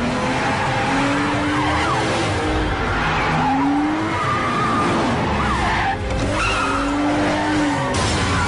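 A car being driven hard: the engine revving up and down while the tyres squeal through skids.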